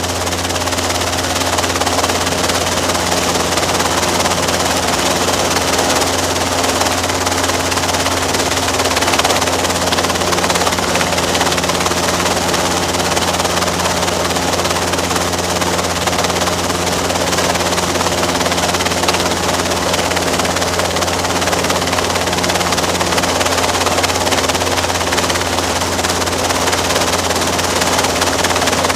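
Robinson R22 helicopter running steadily: its four-cylinder piston engine and rotors make a loud, even drone with constant low hum tones.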